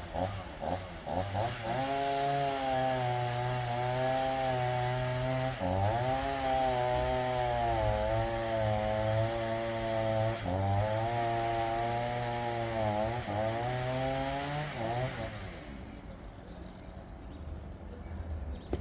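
Makkie 38cc two-stroke chainsaw revving up about a second and a half in and running at high revs, cutting through a log. Its pitch sags briefly a few times under load, and it winds down about fifteen seconds in.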